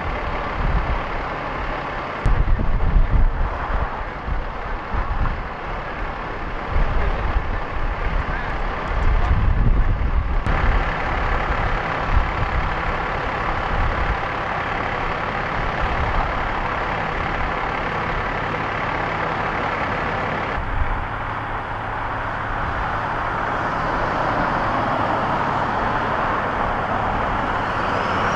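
A heavy diesel truck engine running steadily, with heavier low rumbles in the first several seconds and a swelling drone near the end.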